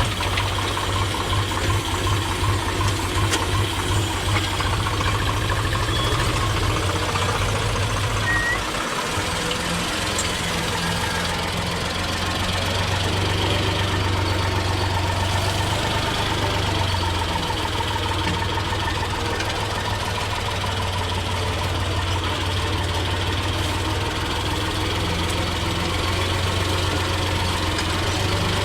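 Diesel tractor engine running steadily under load with a loaded trolley of murum. The engine note dips briefly about nine seconds in, then carries on evenly.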